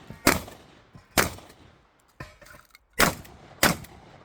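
Shotgun firing four shots: two about a second apart, then after a pause of nearly two seconds with a few faint clacks, two more in quick succession.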